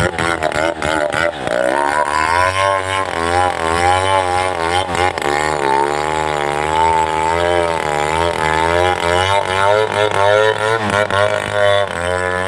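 Chainsaw running at high speed, cutting into a tree trunk; its pitch wavers steadily as the load on the chain changes. It sounds choppy and uneven for the first second or so, then settles.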